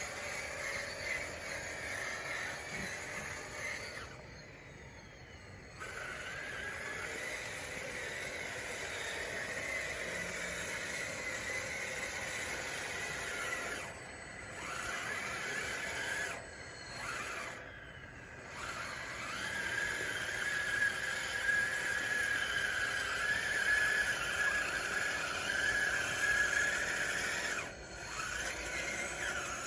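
Small electric drive motors and gearboxes of an RC DXR2 dozer whining as it pushes dirt. The whine drops out briefly several times, rises about two-thirds of the way in and holds louder until near the end.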